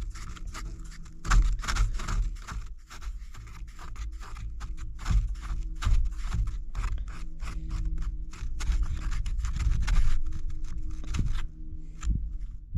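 A wooden stick scraping and stirring two-part JB Weld epoxy, steel part and hardener mixed together: a quick, irregular run of scrapes and clicks with a few low thumps.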